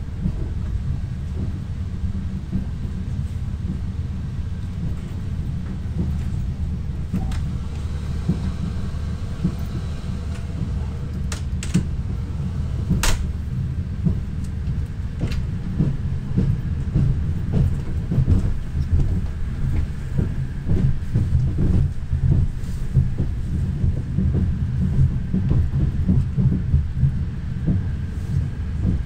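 Inside a moving Strizh (Talgo) passenger carriage: the train runs with a steady low rumble from wheels on track. Short clicks and knocks from rail joints and switches come through it, with a sharp click about 13 seconds in, and the knocks grow more frequent in the second half.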